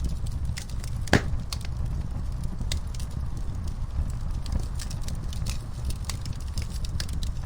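Wood fire crackling in a fireplace: a steady scatter of small pops and snaps over a low rumble, with one loud pop about a second in.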